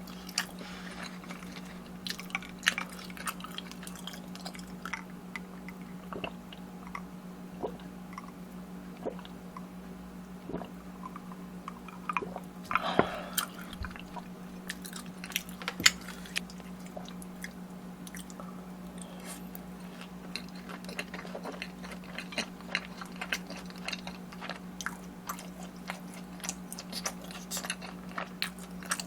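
Close-miked chewing and biting of food: irregular wet, squishy mouth clicks and crunches, with a busier stretch about halfway through, over a steady low hum.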